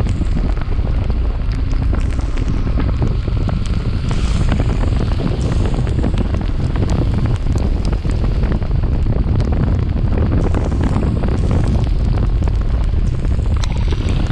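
Wind buffeting the microphone of a chest-mounted action camera on a moving motorcycle: a loud, steady rumble with scattered small ticks.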